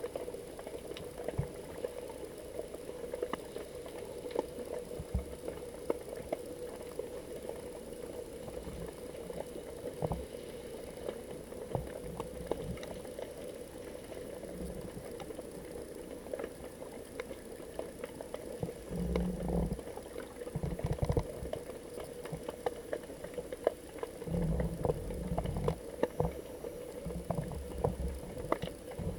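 Underwater sound picked up by a GoPro sealed in its waterproof housing: a muffled steady hum with many scattered clicks and crackles. Low rumbling surges of water come twice in the second half.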